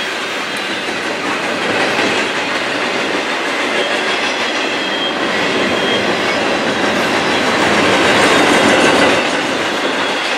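Railroad freight cars rolling past, their wheels clattering over the rail joints in a steady loud rush that swells near the end.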